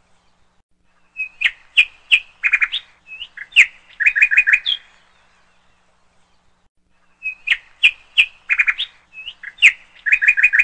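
Birdsong: quick chirps and short trills in a burst of about three and a half seconds, a pause of about two seconds, then the same burst again, a repeated phrase.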